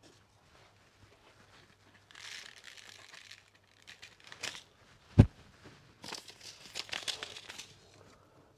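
Crinkly rustling of packaging handled while pak choy seeds are sown into cell trays, in two spells, with one sharp knock about five seconds in.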